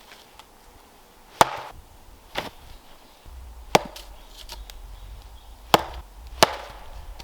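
Wood being chopped by hand: five sharp, separate chopping blows at an uneven pace, with a few lighter taps between them.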